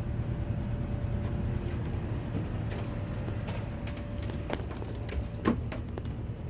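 Tempstar furnace and central air conditioning running: a steady low hum with a thin high-pitched tone over it that resonates through the house. A few light clicks, and a brief sharper sound about five and a half seconds in.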